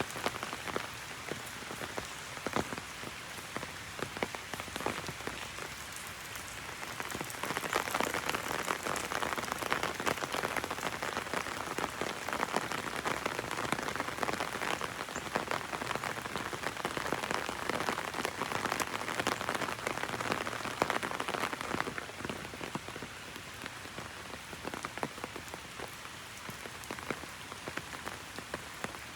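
Heavy rain pattering on an umbrella close overhead, a dense patter of many drops. The rain gets heavier about a quarter of the way in and eases again about three quarters through.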